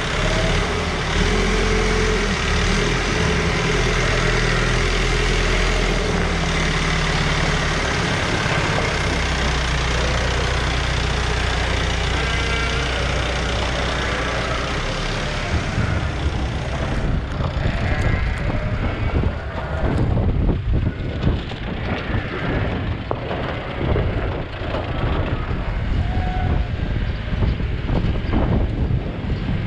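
Heavy farm machinery engine running, its pitch shifting up and down. About halfway through it gives way to a rougher, gusty noise.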